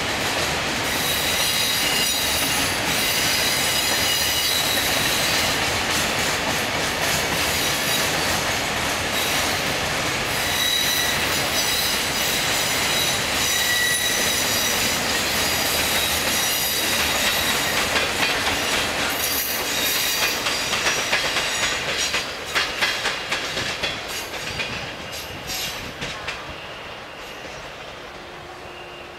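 Freight train of open-top wagons rolling past at close range: steady wheel-on-rail noise with high squealing tones from the wheels. A run of sharp clacks comes over the rail joints near the end, and the noise then fades as the last wagon goes by.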